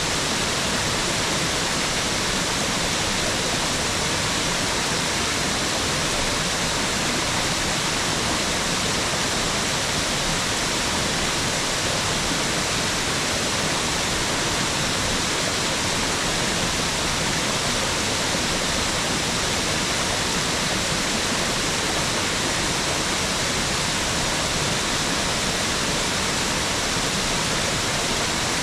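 Mountain waterfall: a steady, unbroken rush of falling water with no change in level.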